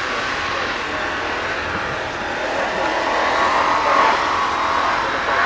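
Classic two-door Range Rover's engine revving hard as it drives through deep snow, getting louder and rising in pitch about three to four seconds in.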